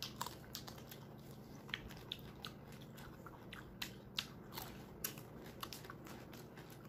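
Biting and chewing of crunchy unripe green mango slices: a scatter of quiet, sharp crunches and clicks.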